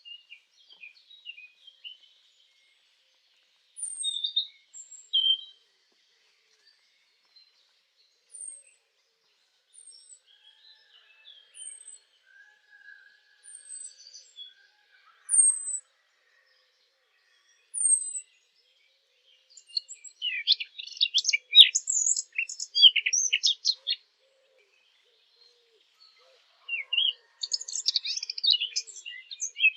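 Sylvia warbler song in the wild. Scattered short notes and a run of thin, high, falling notes repeated every second or so give way to two bursts of fast, scratchy warbling, one near the middle and one near the end.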